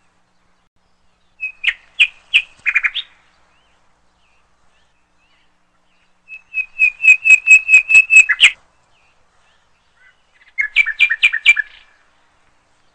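A songbird singing three short phrases of rapid, sharp chirping notes. There is one phrase about a second and a half in, a longer run of about a dozen notes in the middle, and a last phrase near the end.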